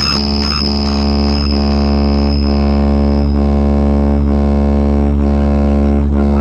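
DJ sound-system speaker boxes playing a loud, steady deep bass drone, with a faint tick about once a second.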